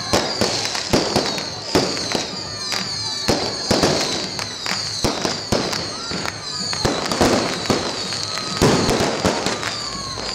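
Fireworks display: a rapid, dense run of bangs and crackles with repeated high whistles.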